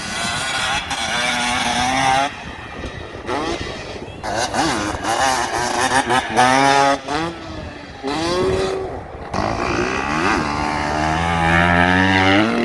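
Motocross dirt bike engines revving hard in repeated throttle bursts, the pitch climbing and dropping with each burst and cutting back between them.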